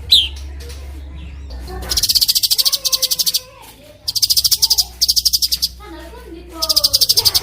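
Recorded songbird singing rapid 'rol speed' trills, about eleven high notes a second in bouts of a second or so. The bouts come three times, with lower, varied warbling notes between them.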